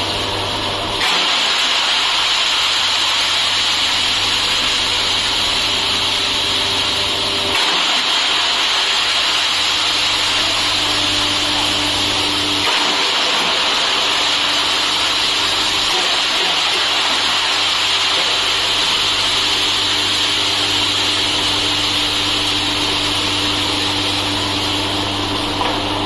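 Bamboo wood chipper running: a steady, loud machine noise with a hum underneath. The sound changes abruptly about a second in, and again after about seven and twelve seconds.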